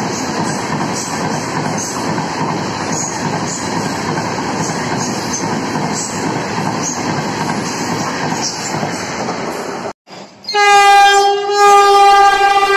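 Shatabdi Express coaches running past at speed: a steady rumble of wheels on rail with faint scattered clicks. About ten seconds in it cuts off, and a Vande Bharat Express trainset sounds its horn in one loud, steady note.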